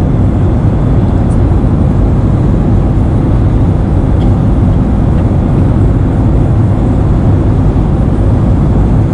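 Airliner cabin noise: the steady, loud rumble of engines and rushing air heard inside the cabin in flight.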